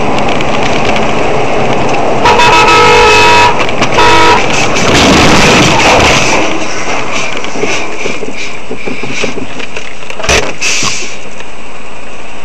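Car horn blown twice over steady vehicle road noise, first a blast of about a second a little over two seconds in, then a shorter one right after; a short sharp knock near the end.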